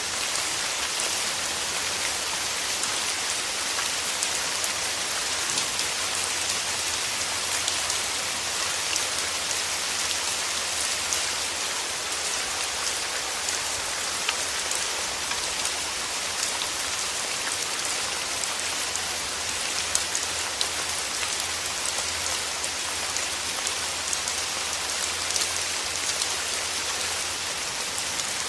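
Steady rain falling, with many small drops pattering on leaves and petals.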